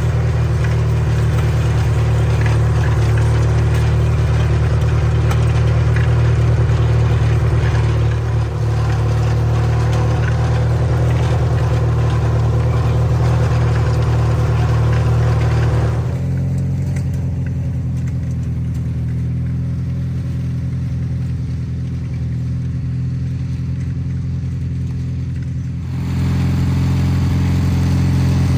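Garden tractor engine running steadily. About halfway through, its sound turns duller and a little quieter; near the end it comes back to the fuller sound.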